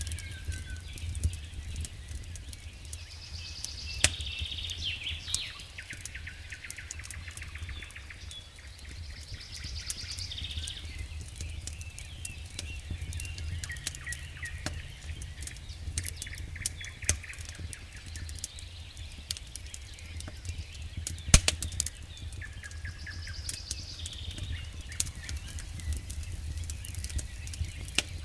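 Wood fire crackling with frequent sharp pops, one loud pop about two-thirds of the way through. A songbird sings a short repeated phrase every six or seven seconds, over a steady low rumble.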